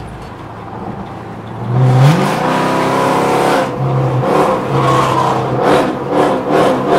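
Chrysler 300's engine accelerating under throttle, heard from inside the cabin: its note rises sharply about two seconds in, then holds a steady, loud pull.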